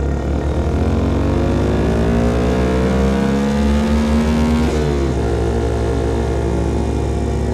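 Small single-cylinder motorcycle engine, a CFMOTO Papio SS breathing through a KO Lightning slip-on exhaust, accelerating with its pitch rising steadily. About five seconds in the pitch drops suddenly, and it runs on steadily at the lower pitch.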